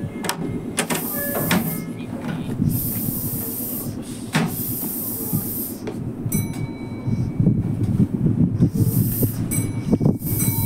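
A Meitetsu commuter train stands at the platform with its equipment running in a steady rumble. Its pneumatic doors slide open with air hissing and a few clicks. From a little past the middle, a thin steady high tone sounds over it.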